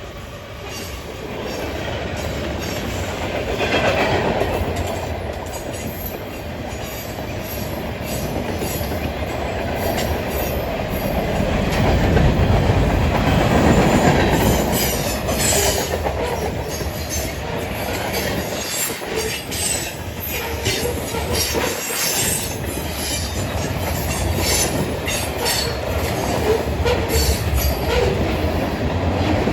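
A train rolling past close by: a steady rumble with wheels clicking over the rail joints and some wheel squeal.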